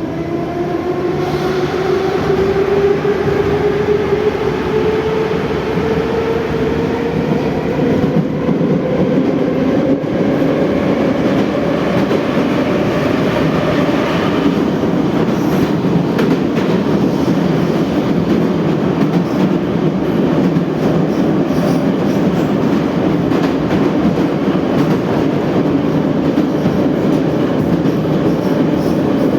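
Moscow metro 81-717/714 train pulling away from a station. The traction motors' whine rises steadily in pitch over about the first twelve seconds as it accelerates. After that it runs at speed with a steady rumble and a clatter of wheels over the rails.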